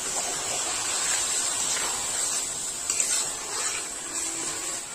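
Okra in onion-tomato masala sizzling in a metal kadhai just after water has been added, with a spatula stirring through it. A steady hiss with a few faint scrapes around the middle.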